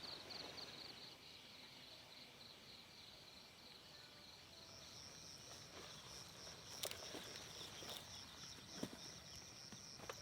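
Insects chirping in a fast, even pulse, faint: one fades during the first half and a second, slightly higher one takes over from about halfway. A few faint knocks sound in the second half.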